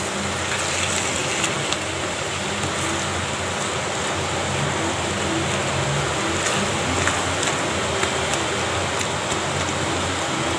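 Potato filling for masala dosa sizzling in a pan as a spatula stirs and mashes it. A steady hiss runs throughout, with light taps of the spatula against the pan.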